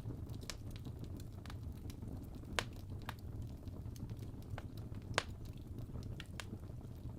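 Fire crackling: a steady low rumble of flames with scattered sharp pops, two louder ones about two and a half and five seconds in.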